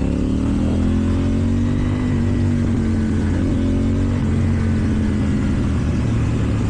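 KTM Duke 790's parallel-twin engine through an Akrapovič exhaust, revving up at the start, then easing off slowly and holding a steady pitch from a little past halfway.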